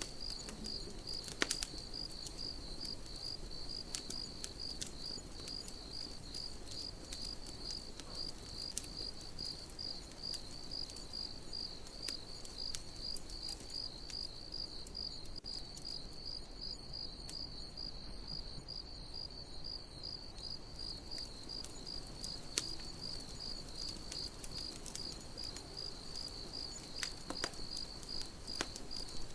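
Crickets chirping in a steady, evenly pulsed high chorus. Now and then a campfire gives a sharp crackle.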